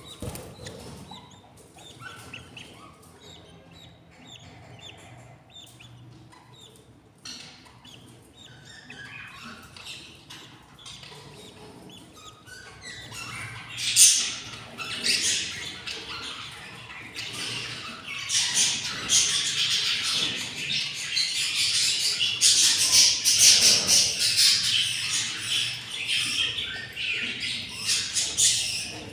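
Budgerigars chirping and squawking at the nest, faint and sparse at first, then from about halfway a louder, dense run of high-pitched calls that keeps on to the end.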